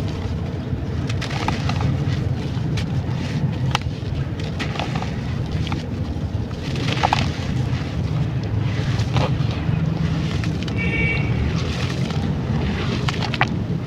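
Chunks of dry brown sand-clay being crumbled and crushed by hand: scattered crunches and crackles over a steady low rumble.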